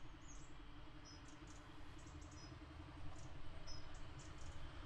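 Faint small birds chirping: short, high, thin notes repeated many times, over a low background rumble.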